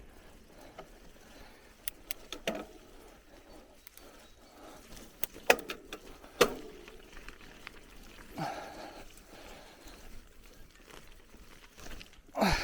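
Bicycle rattling and knocking as it rolls over a rough forest trail: scattered sharp clicks and knocks over a low rolling noise, with a louder bump near the end.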